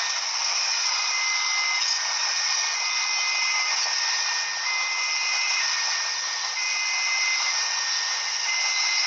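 Railway level-crossing warning alarm sounding two high tones that alternate about once a second, over a steady loud hiss.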